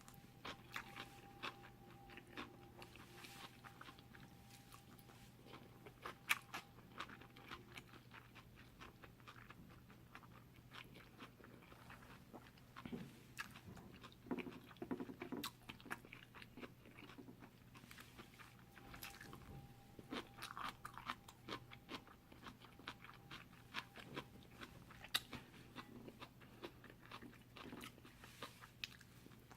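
Close-miked chewing of chewy cold jjolmyeon noodles: soft, irregular wet clicks and smacks of the mouth, with a cluster of heavier chewing about halfway through.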